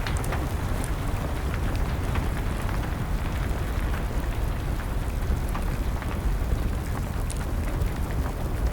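Wood fire crackling, with scattered sharp pops, over a steady hiss of falling rain.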